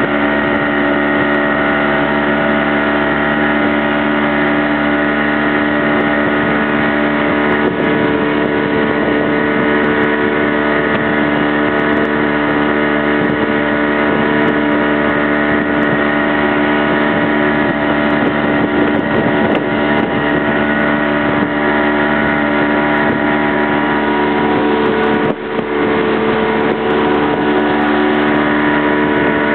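Motorboat engine running at a steady pitch, with a brief dip in level about 25 seconds in.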